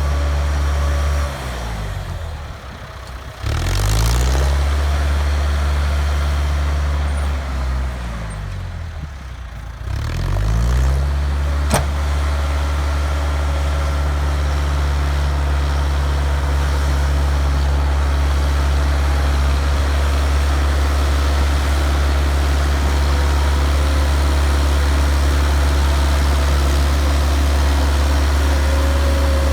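Bulldozer engine running steadily; twice its speed drops and then climbs back up. A single sharp knock comes about twelve seconds in.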